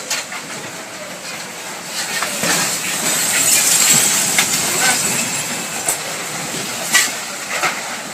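Tornado winds rushing past the building in a continuous train-like rumble that swells a little after the middle, with many sharp cracks and clinks of flying debris and glass, the loudest crack about seven seconds in.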